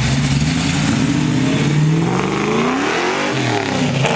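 A car engine revving under acceleration: its pitch climbs, falls back about three seconds in, then climbs again.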